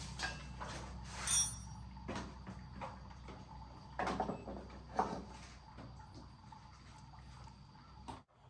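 Scattered knocks, scrapes and a brief squeak from parts being handled, over a steady low hum that cuts off abruptly near the end.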